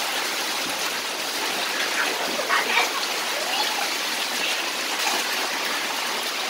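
Steady rushing of water: heavy rain falling and a stream from a roof spout splashing onto wet concrete and the children under it.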